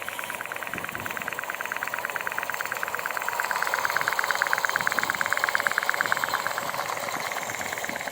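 Stirling-engine-powered G scale model Shay locomotive running, giving a rapid, even ticking from its engine and geared drive. It grows louder through the middle and eases off toward the end.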